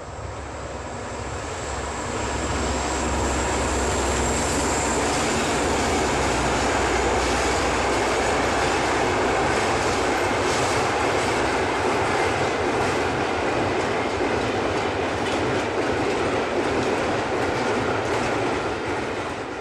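A train running on rails: a steady rail noise that swells over the first two seconds and eases off near the end.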